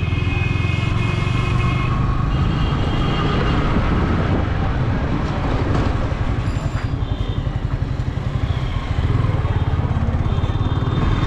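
Yamaha R15 V3 motorcycle's single-cylinder engine running steadily while the bike is ridden.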